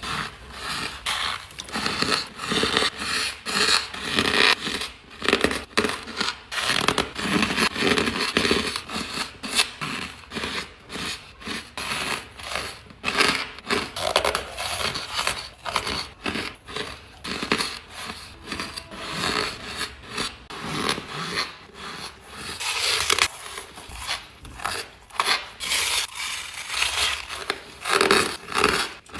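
Ice being bitten and chewed close to the microphone: a steady run of crisp, crackly crunches, several a second.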